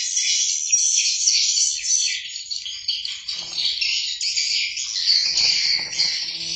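Dense, continuous high-pitched chorus of chirping birds mixed with insect chirring, with a few faint lower calls about halfway through and again near the end.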